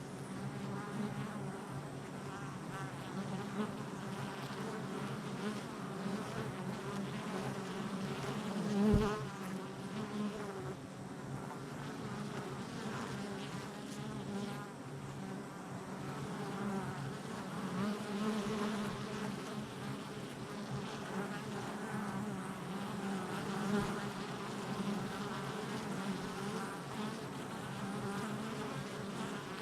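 Honey bees buzzing at the hive entrance: a steady hum of many wings, with pitches wavering as bees come and go. A brief louder swell comes about nine seconds in.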